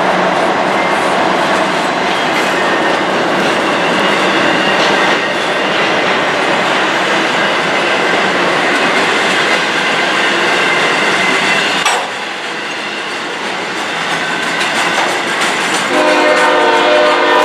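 A train rolling past, a steady loud rush of wheels on rail; about twelve seconds in the sound cuts abruptly to a quieter passage. Near the end a locomotive air horn sounds a steady chord of several notes.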